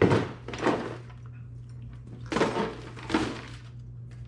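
Metal motorcycle muffler parts knocking as they are handled: four clunks in two pairs, near the start and again about halfway, each with a short ring, over a steady low hum.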